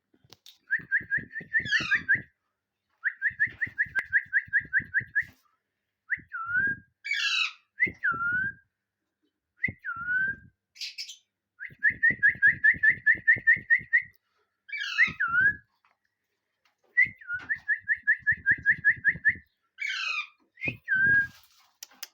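A parrot whistling: rapid runs of repeated notes, about eight a second and lasting one to three seconds each, broken by upward-swooping whistles and short falling whistles, with brief pauses between phrases.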